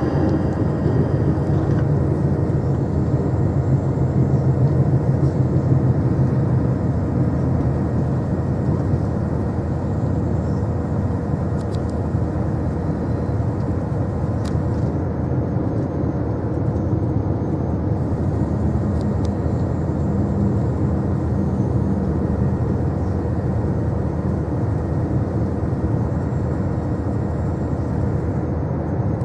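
Steady rumble and hum of a diesel passenger train running at speed, as heard inside the carriage: wheel and track noise with an engine drone that is strongest in the first few seconds.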